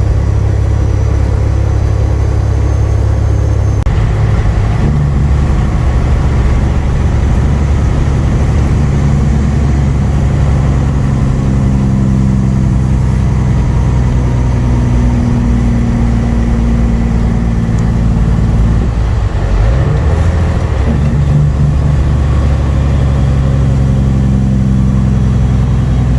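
Semi truck's diesel engine pulling a full load of wheat at highway speed, with a steady low drone. The engine note steps up about four seconds in, then dips and climbs back up about twenty seconds in.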